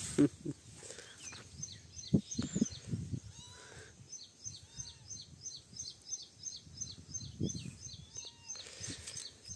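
A small bird chirping, a quick run of high chirps at about three or four a second through the middle, over a few sharp low knocks and soft rustling.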